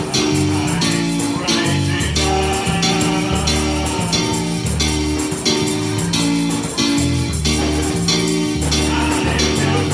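Upbeat gospel music from a church band: a steady beat with tambourine, bass and guitar.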